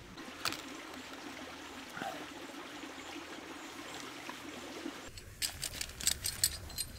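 Small creek water trickling steadily. About five seconds in the sound changes abruptly and a quick run of sharp clicks and snaps follows.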